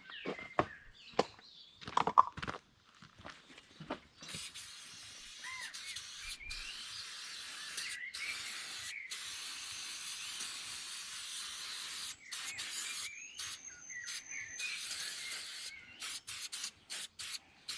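An aerosol can of Soft Seal rust-preventive spray hissing as it coats unpainted metal parts against rust: one long burst of about eight seconds, a shorter one, then several quick puffs near the end. A few knocks and clicks come first, in the opening seconds.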